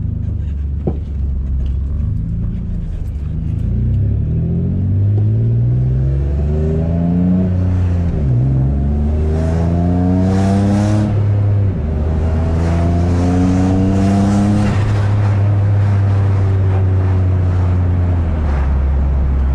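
Single-turbo Infiniti G35's 3.5-litre V6 accelerating hard through the gears on low boost. The engine note climbs, drops sharply at two gear changes about eight and twelve seconds in, climbs again, then holds steady before easing off near the end.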